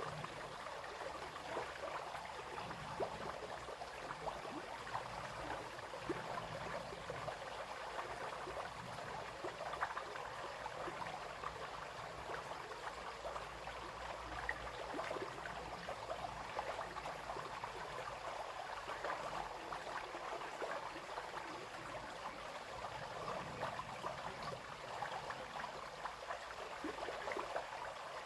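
Small brook babbling and splashing over stones, a steady, continuous rush of running water.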